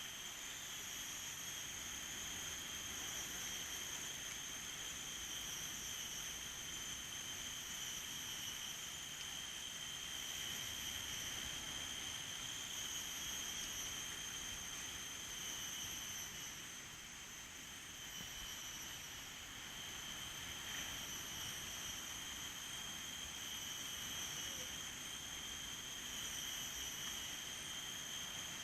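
Steady chorus of insects singing in several unbroken high-pitched bands, over a soft rushing background.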